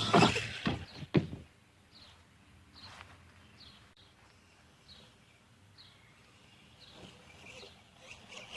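RC monster truck running, with its motor whine and two sharp knocks of the truck hitting the ground in the first second or so. Then a bird chirping, one short falling chirp about every second, until the truck's sound builds again near the end.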